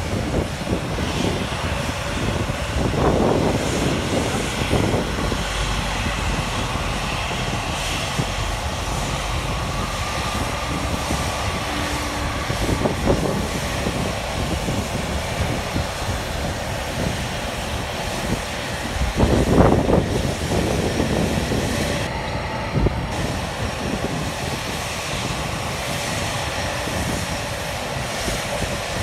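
Airliner's jet engines at take-off thrust, a steady, loud roar of jet blast. Gusts of the blast buffet the microphone, loudest about three seconds in and again near twenty seconds.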